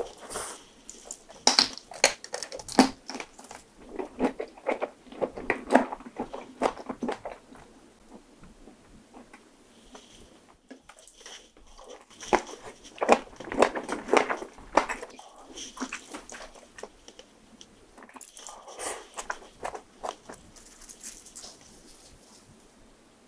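Close-miked eating sounds: wet chewing and biting of marinated raw shrimp, in bursts of rapid smacking clicks with quieter pauses between mouthfuls.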